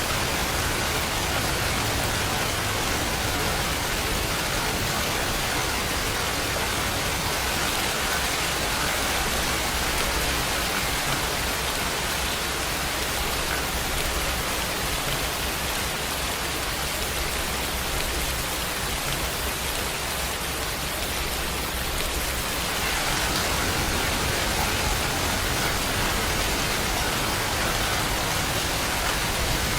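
Steady rain falling as a dense, even hiss, growing a little heavier about three-quarters of the way through.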